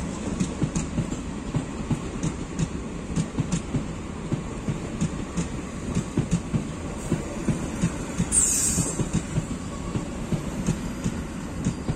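Passenger train's coaches rolling past, the wheels clacking over rail joints over a steady low rumble. A brief high squeal slides downward about eight seconds in.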